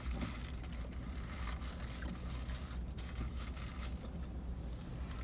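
Steady low rumble of a vehicle idling, heard from inside the cab, with small scattered clicks and rustles of eating.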